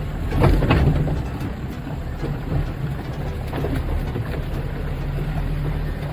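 Off-road 4x4's engine running at low revs with a steady low drone, with a few knocks and clunks about half a second to a second in.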